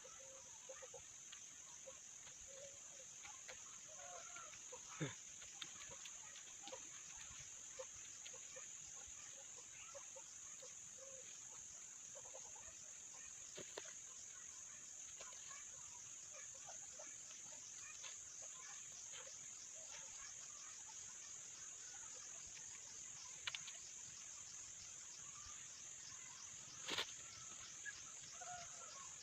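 A faint, steady high-pitched insect chorus, rapidly pulsing like crickets, with scattered soft chirps and a few sharp clicks or snaps, the loudest near the end.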